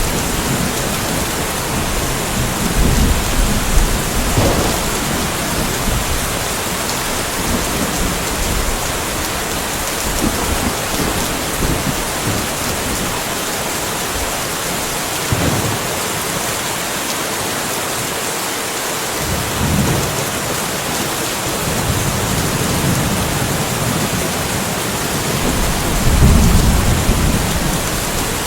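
Steady rainfall with low, rolling thunder from a light thunderstorm. The rumbles swell at the start, again about two-thirds of the way through, and most strongly near the end, with a few louder single drops in between.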